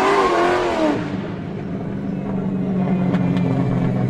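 Car tyres squealing in a skid, a wavering screech that stops about a second in, followed by a steady car engine drone.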